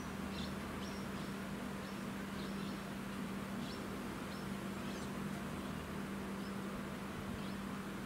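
Faint, short high-pitched bird chirps, about ten scattered through, over a steady low hum and hiss.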